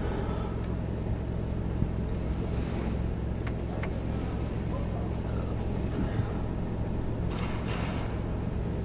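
Car engine idling, heard from inside the cabin as a steady low hum. Two brief hisses rise over it, about two and a half seconds in and again near the end.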